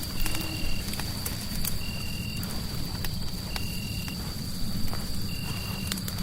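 Fireplace crackling, with sharp scattered pops over a dense low rumble of burning wood. Behind it run a steady high-pitched tone and a short high chirp that repeats about every second and a half.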